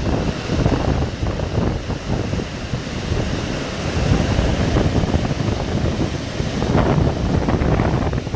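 Hurricane-force wind buffeting the microphone: a loud, rumbling rush that surges and eases in gusts.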